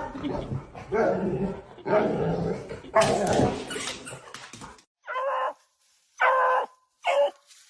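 A dog vocalizing: four rough, loud barking calls about a second apart, then after a sudden break three short, pitched yelping calls.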